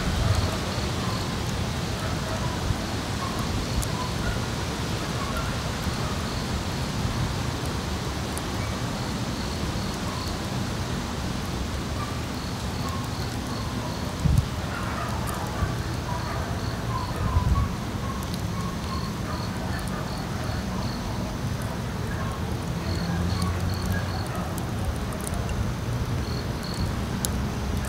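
Outdoor ambience: a steady noisy hiss with a low rumble, over which an insect chirps in short high pulses in groups of three or four, with scattered lower chirps. Two brief thumps stand out about halfway through.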